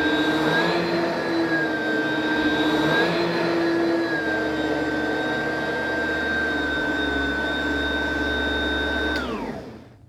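Oreck upright vacuum cleaner running with a steady whine, its pitch dipping and recovering a few times in the first few seconds. About nine seconds in it is switched off and the motor spins down with a falling whine.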